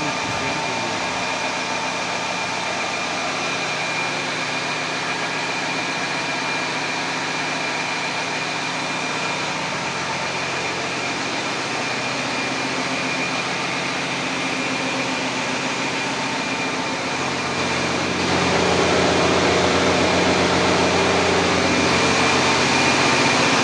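A fire engine's engine running steadily, with a thin high whine over the drone. About 18 seconds in it gets louder and its low note changes, as if the engine is brought up in speed.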